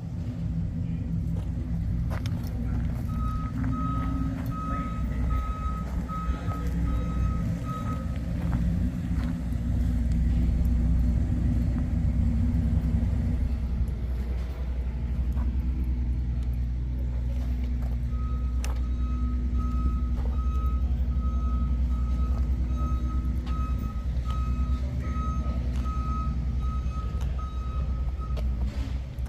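A 1970 Ford Torino Cobra's 429 Super Cobra Jet V8 running at a steady idle with a deep rumble. It grows a little louder for a few seconds in the first half. Over it, an electronic beep sounds about twice a second in two stretches, first for about five seconds and later for about ten.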